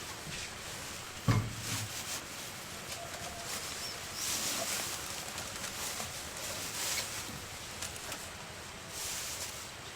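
A single dull thump about a second in, followed by several short bouts of rustling.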